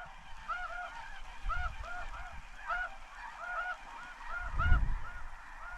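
Snow geese calling: many short, high honks over and over from a flock, overlapping one another. Low wind rumbles on the microphone about a second and a half in and again near the end.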